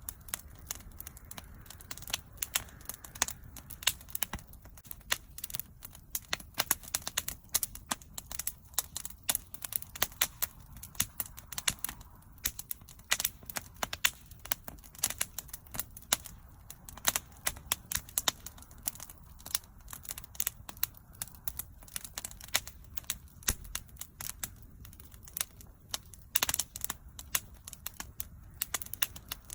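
Wood fire crackling steadily, with many irregular sharp pops and snaps over a low rumble of the burning.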